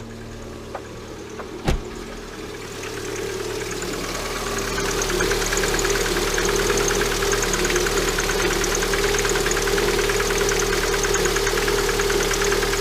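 Lada Granta 126 engine, a 1.6-litre sixteen-valve four-cylinder, running with a fast, steady ticking knock from the top end. The knock grows louder over the first few seconds. It comes from a seized hydraulic valve lifter.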